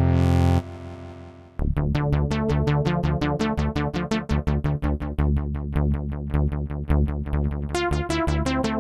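Waldorf Protein synthesizer: a held chord cuts off about half a second in and its tail dies away. After a moment a fast, even pattern of short plucked notes starts over a steady low bass line, about seven notes a second. Brighter, higher notes join near the end.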